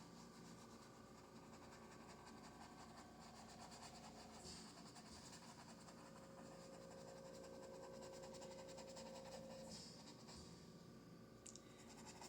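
Near silence with the faint scratching of a paintbrush working acrylic paint on canvas, a few strokes over a low steady hum.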